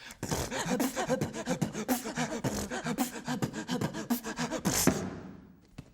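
Human beatboxing: a fast, steady run of mouth-made kick, snare and hi-hat sounds mixed with short pitched vocal bits, fading out near the end.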